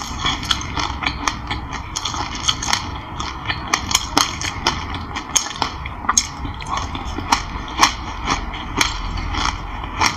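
Close-up chewing of a mouthful of raw black sesame seeds with passion fruit pulp: a run of small, irregular crunches and crackles, several a second.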